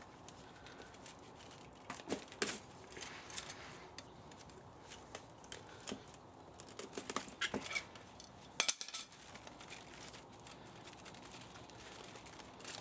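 Irregular metallic clicks and clinks as metal parts and hand tools are handled while an old spa motor is dismantled for scrap, with a louder click about two-thirds of the way through.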